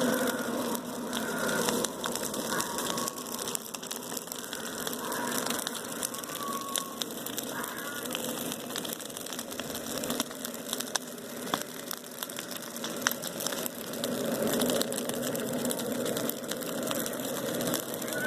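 Bonfire crackling, with irregular sharp pops over a steady hiss, and a few short high chirps now and then.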